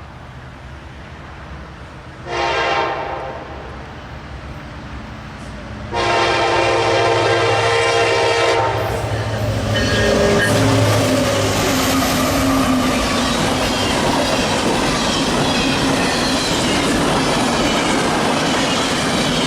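Diesel freight locomotive, an SD70ACE, sounding its air horn: a short blast a couple of seconds in, then a longer one of nearly three seconds. The locomotive's engine and the train's cars then roll past steadily with wheel clatter on the rails.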